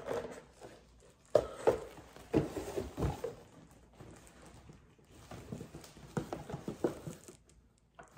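Scattered light knocks and taps of objects being handled, coming in two irregular bunches: one starting about a second in, the other about five seconds in.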